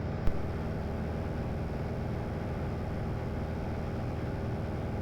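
Light aircraft's piston engine and propeller droning steadily in cruise flight, with a brief click about a quarter second in.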